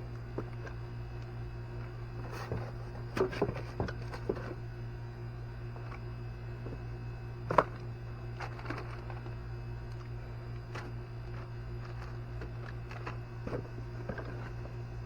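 Scattered light clicks and clinks of small metal parts and hand tools being handled during hand repair work, the sharpest about seven and a half seconds in, over a steady low hum.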